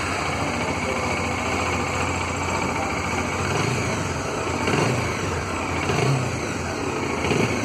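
Bajaj Dominar 400's 373 cc single-cylinder engine idling steadily.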